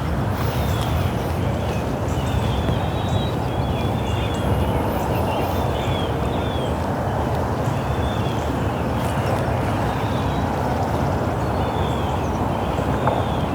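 Birds chirping repeatedly over a steady rushing background noise.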